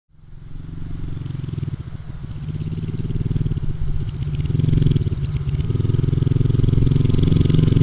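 Motorcycle engine idling with a steady low, rapidly pulsing rumble that fades in and grows gradually louder.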